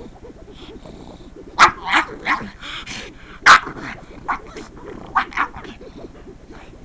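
A pug giving a string of short, sharp barks and yips: about eight in four seconds, starting about a second and a half in, the loudest near the middle. It is her excited reaction to the sound of someone scratching the couch.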